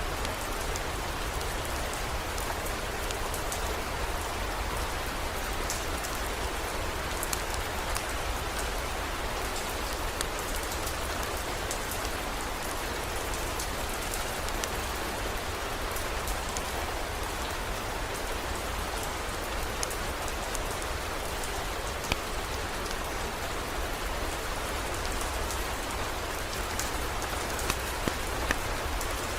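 Heavy rain falling steadily, with individual drops pattering as small clicks over the even hiss and a low steady rumble underneath.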